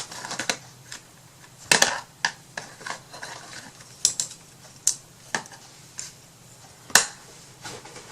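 A handful of short clicks and knocks from small craft items handled on a tabletop as white paint and a brush are readied, the sharpest knock near the end.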